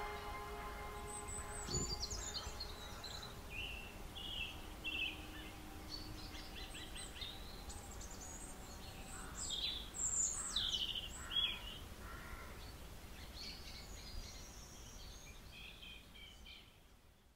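Small birds chirping and singing in many short calls and trills over a steady low background rumble; the sound fades out near the end.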